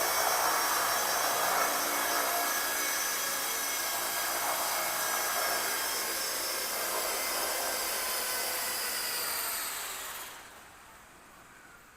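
Kyosho EP Caliber M24 electric RC helicopter whining steadily, its motor and gears giving a high mechanical whine over rotor noise. About ten seconds in the pitch sinks and the sound falls away as the motor spools down, leaving only a faint sound.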